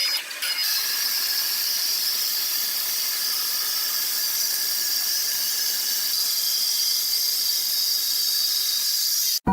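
Sawmill saw running with a steady high-pitched whine and hiss, which cuts off suddenly near the end.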